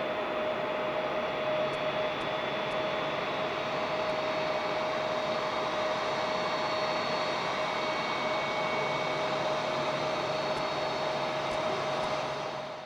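Amakusa Airlines ATR 42-600 turboprop airliner taking off, its engines and propellers running at high power: a steady rushing noise with a constant propeller tone, fading and stopping at the very end.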